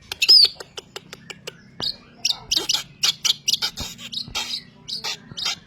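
Long-tailed shrike singing in full voice: a fast, dense run of short chirps, clicks and whistled notes, packed with mimicked calls of other birds, with one loud slurred whistle near the start.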